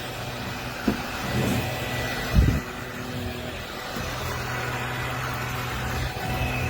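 Bissell PowerClean upright vacuum cleaner running with a steady motor hum, with two short knocks about one and two and a half seconds in.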